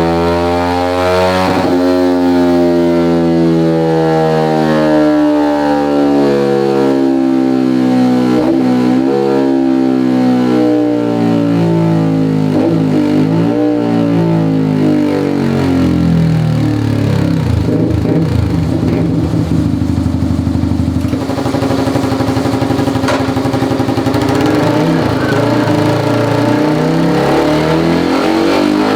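Motorcycle engine running through a 3Tech EvoX aftermarket exhaust on a dyno. The engine speed winds down slowly for about fifteen seconds, turns rough for a few seconds, then holds at a steady pitch.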